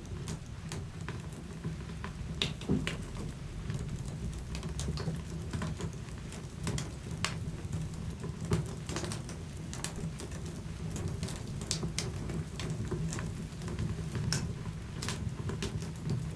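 Wood fire burning in a fireplace: irregular crackles and sharp pops over a steady low rumble of the flames, with louder pops about three seconds in and again a little past the middle.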